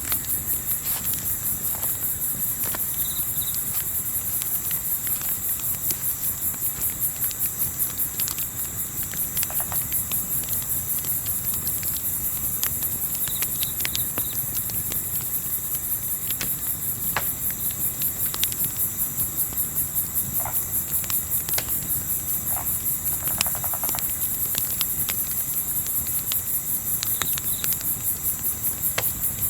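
Crickets chirping in a steady, rapid pulsing trill, with scattered small crackles of a campfire and a low rumble of wind beneath.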